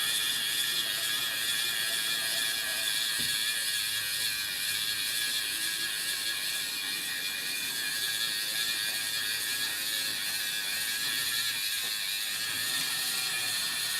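4mm-scale model locomotive running on test, its small electric motor and gears whirring steadily while it hauls a rake of wagons along the track.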